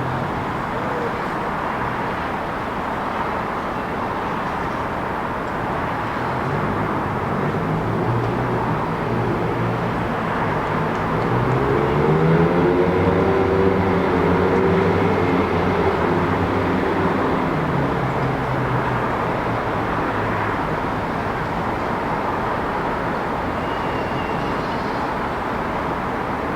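Steady city traffic noise, with one motor vehicle's engine passing by: it grows louder over several seconds, is loudest about halfway through with its pitch rising and then falling, and fades away.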